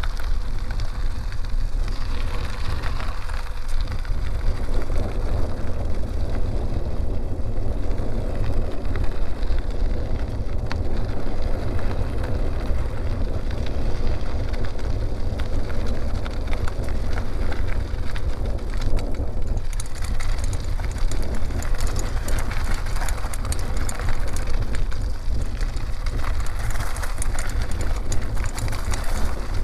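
Bicycle ride on a dirt road: a steady crackle of tyres rolling over gravel and grit, under a heavy, constant wind rumble on the microphone.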